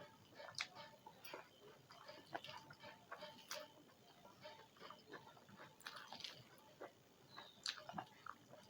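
Faint chewing of a mouthful of food, with irregular wet smacks and mouth clicks.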